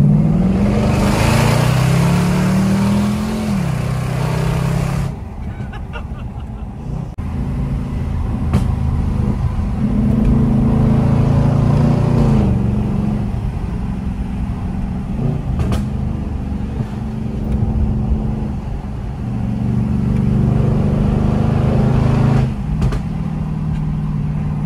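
2011 Jaguar XFR's supercharged V8 with a loud modified exhaust, pulling hard through the gears, heard from inside the cabin. The engine note rises as it accelerates and drops sharply at each upshift: once about three and a half seconds in, again about halfway, and again near the end. A loud rush of wind and exhaust noise fills the first few seconds.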